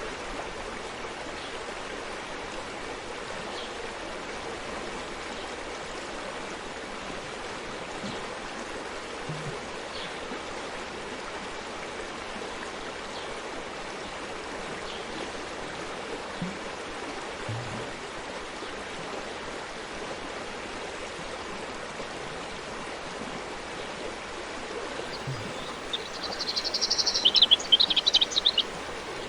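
Steady rushing of a forest stream's running water. Near the end a bird sings a quick run of loud, high chirps for about three seconds.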